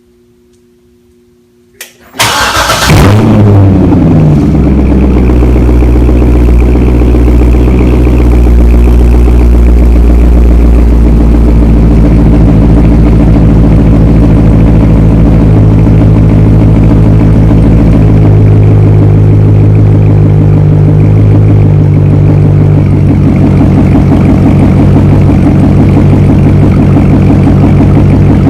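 Chevrolet C6 Corvette V8, with an X-pipe and the mufflers deleted, cranking and catching about two seconds in. It flares briefly in revs, then settles into a loud, deep, steady idle that steps down a little in the later part.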